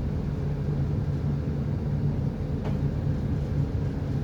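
A vessel's engine running steadily, a low, even drone heard on board while the ship is being worked at the port.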